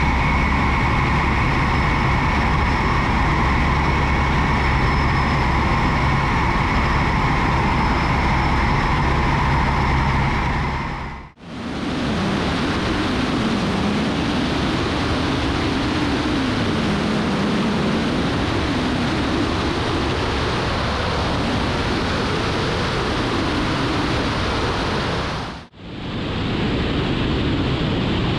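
Light aircraft's engine and propeller noise in flight: a steady drone carrying several held tones, then a rushing noise with a wavering low hum. Twice it drops out briefly and comes back, about 11 and 26 seconds in, where the footage is cut.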